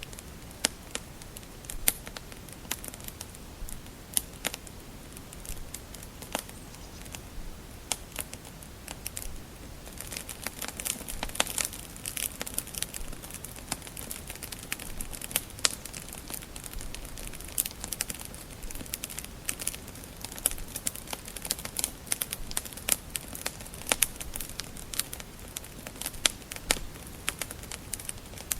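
Wood fire crackling in a fireplace: a steady stream of sharp pops and snaps over a soft, even background, growing busier about ten seconds in.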